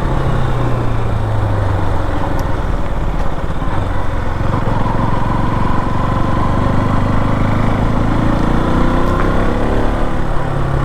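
KTM motorcycle engine running while riding at a steady moderate speed, with wind noise on the microphone. The engine note drops a little about three seconds in, holds steady, then rises slightly near the end.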